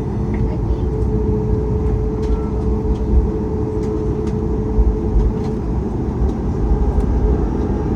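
Inside the cabin of a Boeing 737 MAX 8 taxiing after landing: a steady low rumble of engines and airframe, with a steady hum that fades out about five and a half seconds in.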